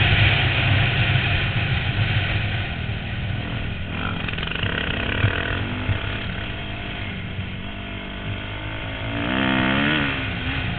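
250cc dirt bike engine heard from a helmet-mounted camera, running hard at first, easing off through a turn, then revving up again about nine seconds in as the bike accelerates onto the straight.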